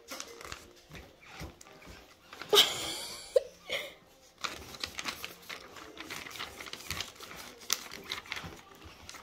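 A sheet of paper being folded and creased by hand, with many small crinkles and taps, and one brief louder burst about two and a half seconds in.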